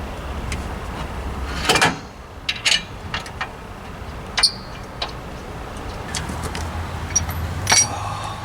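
Scattered metallic clinks and clanks of hand tools and bolts, the loudest about two seconds in and one ringing briefly near the middle, as brake caliper bolts are fitted on a truck's rear axle, over a low steady hum.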